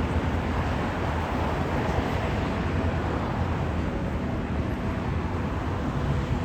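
Steady low rumbling background noise, with no distinct tones or events, cutting off abruptly at the end.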